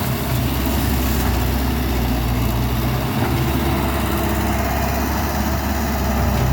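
Caterpillar 312D hydraulic excavator's diesel engine running steadily, with a short dip in its low hum about three seconds in.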